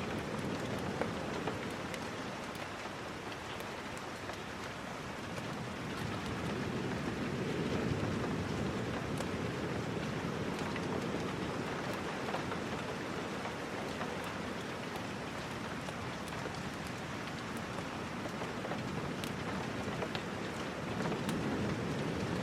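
Steady rain with scattered small ticks, swelling a little about eight seconds in.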